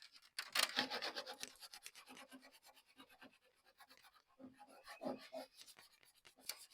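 Dry rasping scrape of something rubbed or dragged across a hard surface: a fast run of scrapes for the first couple of seconds, then scattered softer ones.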